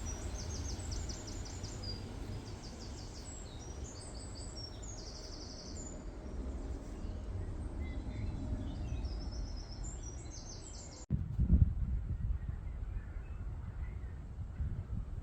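Several woodland songbirds singing high, rapid trills and repeated notes over a low background rumble. About eleven seconds in, the birdsong cuts off abruptly, leaving only a louder, steady low rumble.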